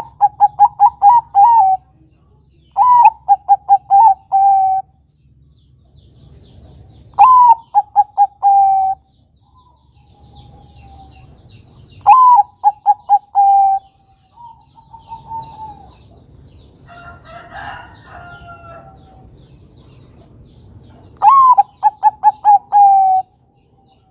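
Bangkok-type zebra dove (perkutut) singing: five repeated phrases, each an opening rising-and-falling coo followed by a quick run of short staccato coos ending in a longer drawn note. A brief, rougher call from another bird comes between the fourth and fifth phrases.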